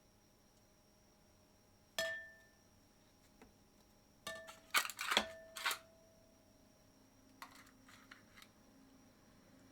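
Tableware being handled: a single ringing clink about two seconds in, then a quick cluster of knocks and clinks a couple of seconds later, one of them ringing on briefly, and a few faint ticks near the end.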